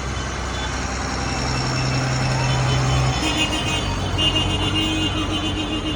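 Tractor engines running steadily as the tractors drive past, with a higher held tone joining about three seconds in.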